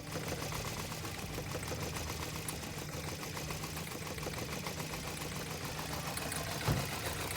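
Ram 3500 pickup running with a rapid, even rattling clatter, with one dull thump about two-thirds of the way through. It is the truck brought in after a loud bang from its transmission while towing.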